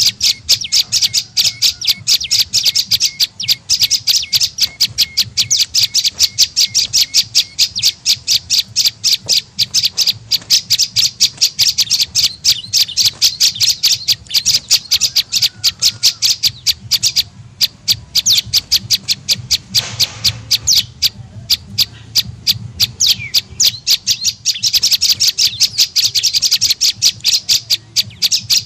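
Prenjak lumut lure call: a fast, continuous run of high, harsh chattering notes, several a second, with a couple of brief breaks past the middle.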